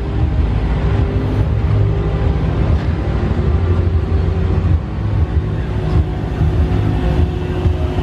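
Steady low engine rumble with a constant hum riding on it, as of vehicle engines running nearby.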